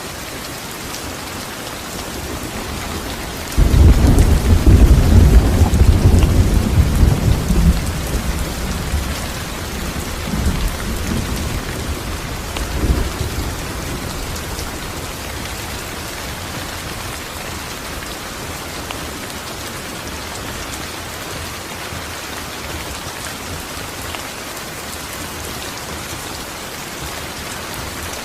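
Steady rain falling, and a loud clap of thunder breaks in about four seconds in, rumbling low and dying away over the next ten seconds.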